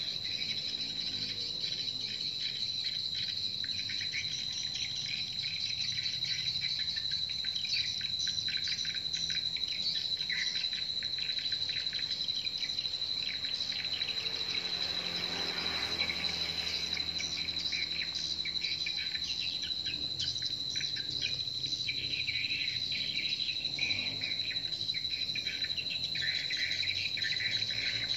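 Swiftlet lure calls from a swiftlet house's speakers: dense, fast twittering chirps over a steady, insect-like high tone.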